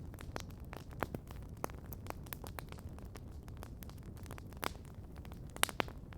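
Campfire crackling: irregular sharp pops and snaps over a low steady rumble, with the loudest pops near the end.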